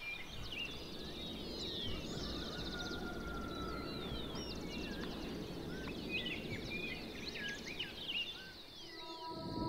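Several wild birds chirping and whistling in short, varied calls over a steady low background rumble of outdoor ambience. Near the end the birds and rumble drop away as a sustained musical tone comes in.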